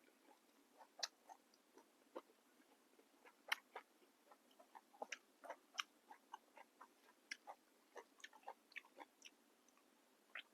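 A person chewing a mouthful of food, with many small irregular crisp crunches and mouth clicks, faint.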